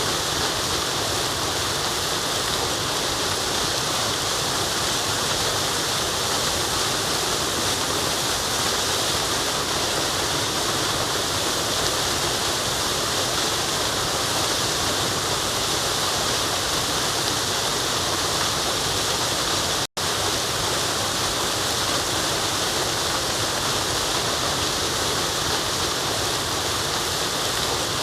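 Waterfall rushing: a constant, even roar of falling water, strongest in the upper range. It cuts out completely for a split second about twenty seconds in.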